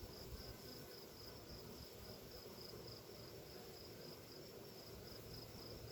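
Faint, steady high-pitched chirping of a cricket, pulsing a few times a second over a low background hiss.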